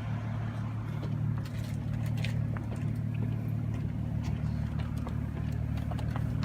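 Engine running with a steady low drone, with scattered faint clicks over it.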